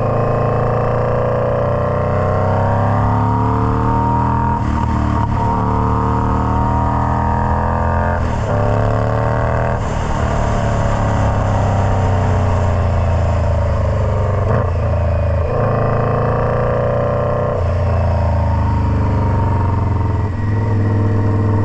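Indian Scout Bobber V-twin running through a Freedom Performance Combat 2-into-1 exhaust, its engine speed rising and falling again and again, with several abrupt breaks in pitch along the way.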